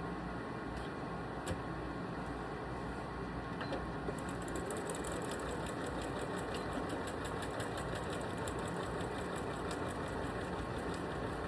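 Electric sewing machine stitching cross-hatch quilting lines. About four seconds in, a rapid, even needle ticking sets in over the steady running hum.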